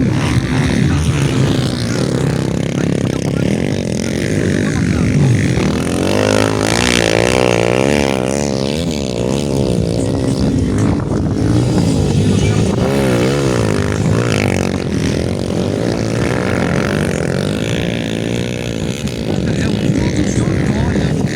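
Motocross motorcycles racing, their engines revving up and down in pitch, over and over, as the bikes work the track.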